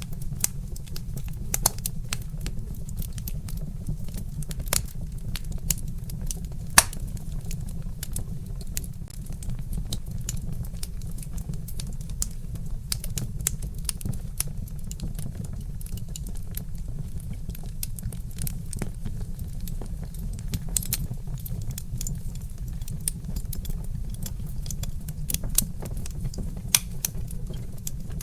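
Wood fire crackling, with frequent small sharp pops and one louder pop about seven seconds in, over a steady low rumble.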